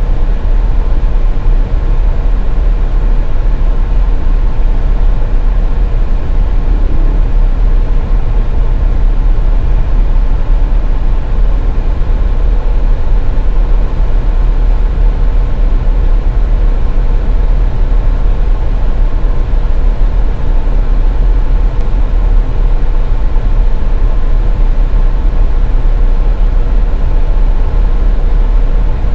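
A car driving along a snowy highway: a steady, loud, low rumble of road and tyre noise, with a faint steady hum above it.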